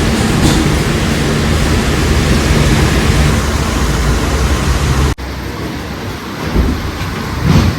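Tractor diesel engine running under heavy wind noise on the microphone, a loud steady rush with a low hum beneath. It cuts off abruptly about five seconds in, leaving a quieter rush.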